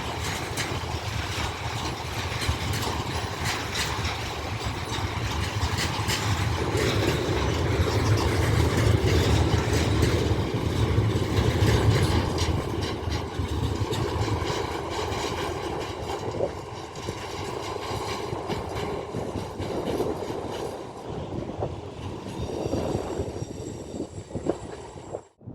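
A train running past along the track, its wheels clicking over the rail joints, loudest about halfway through. Near the end a faint high steady whine appears, and the sound cuts off abruptly just before the end.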